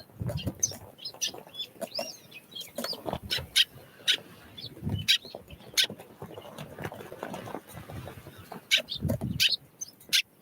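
Small wild birds giving short chirps and calls, mixed with scattered sharp taps and soft low flutters of wings.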